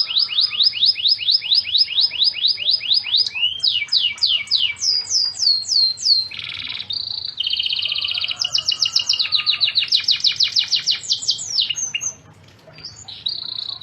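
Domestic canary in full song. It sings rapid trills of repeated falling notes, a few slower down-slurred notes and buzzy rolls, breaks off briefly near the end, then resumes trilling.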